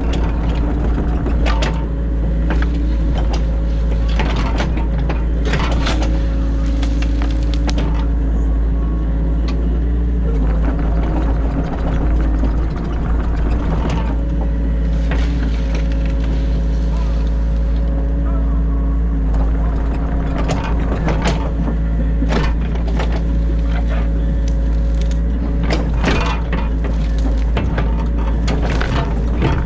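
New Holland E50.2 mini excavator's diesel engine running steadily, heard from inside the cab. Frequent knocks and clatters from the digging work sound over the engine.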